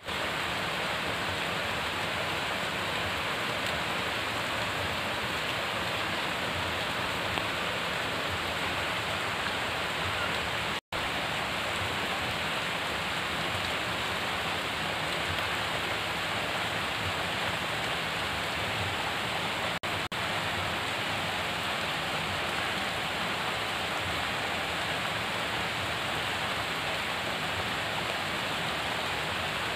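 Steady rain falling on wet ground and foliage, an even hiss that never changes, cutting out for an instant about eleven seconds in.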